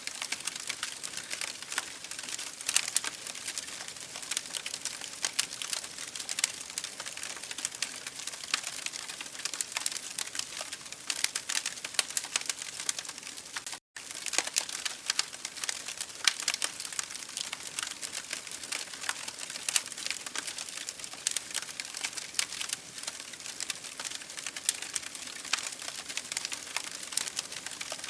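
Fire in an open fireplace crackling: dense, irregular pops and snaps with a soft hiss underneath. There is a very brief cut to silence about halfway through.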